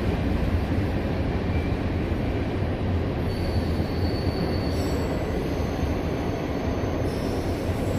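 CSX freight train rolling past with a steady rumble of wheels on rail. From about three seconds in, thin high-pitched wheel squeals come and go.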